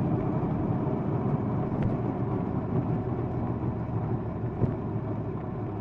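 Triumph Bonneville Bobber's parallel-twin engine running steadily under way, with road and wind noise from the ride.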